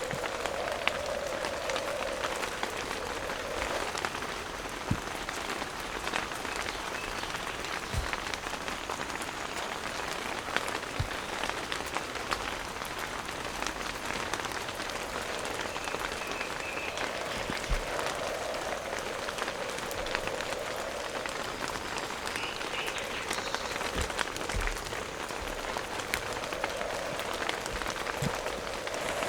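Heavy rain falling steadily, with scattered louder drops striking close by. A lower rushing band swells and fades several times.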